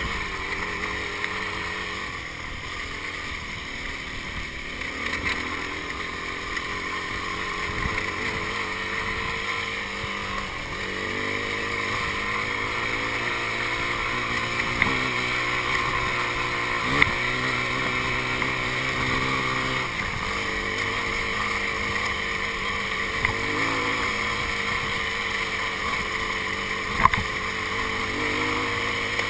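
Trail motorbike engine running under load, its pitch stepping up and down with gear changes and throttle, with a few sharp knocks along the way.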